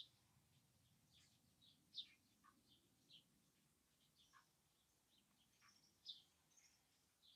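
Faint birdsong: many short, high chirps and tweets scattered irregularly, a few each second, over a quiet background.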